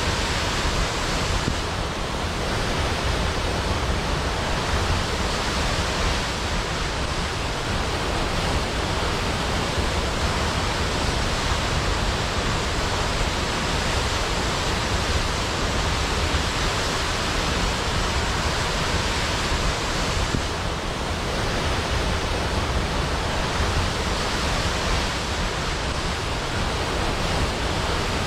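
Large waterfall, water crashing down steadily in a continuous, even rush with no breaks or separate events.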